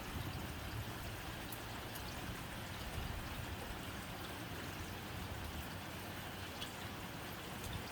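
Steady rain on a tin roof: an even hiss of rain with scattered sharp ticks of single drops striking the metal.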